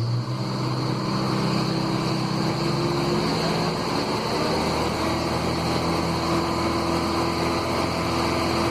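Chevrolet Colorado pickup engine idling steadily, with a vacuum gauge connected to an intake vacuum port for a vacuum test.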